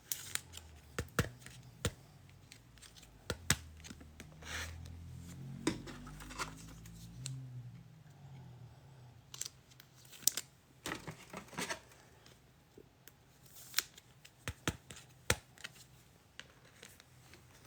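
Trading cards and their packaging being handled at close range: scattered soft clicks, slides and short rustles of card stock and plastic wrap.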